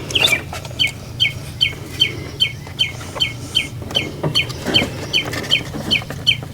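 A bird calling steadily, a short falling chirp repeated about two to three times a second, over a faint steady low hum.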